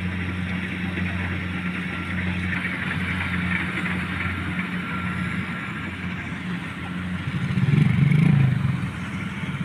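An engine running steadily with a low hum, swelling louder for about a second near eight seconds in.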